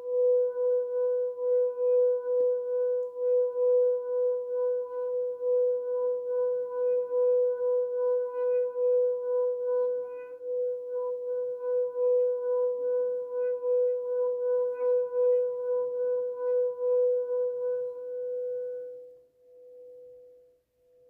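Singing bowl sung by circling its rim: one steady, loud tone with fainter higher overtones and a quick, even pulsing. Near the end it dies away in a few slow swells.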